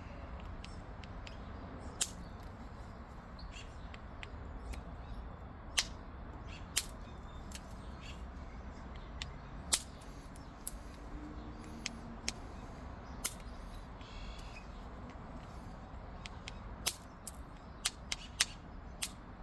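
Small flakes snapping off an obsidian point under pressure flaking: sharp single clicks at irregular intervals, a few seconds apart and then closer together near the end, over a faint low hum.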